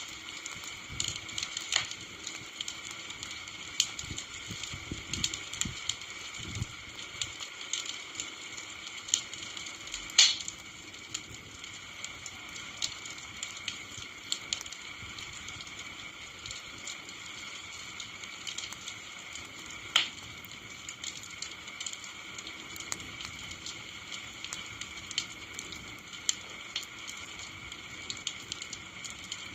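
Wood campfire crackling: many irregular sharp pops over a steady hiss, with the two loudest pops about ten and twenty seconds in. A low rumble underneath fades out over the first several seconds.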